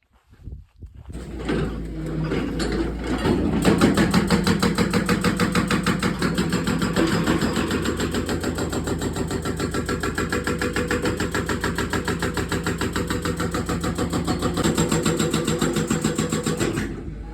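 Diesel engine of a Hyundai long-reach excavator running steadily with an even, rapid pulse. It comes in about a second in and drops away near the end.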